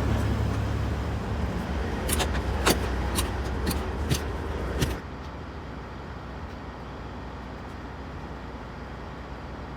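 Low steady rumble of an idling truck engine with several sharp clicks and knocks, which cuts off suddenly about five seconds in, leaving a quieter steady hum.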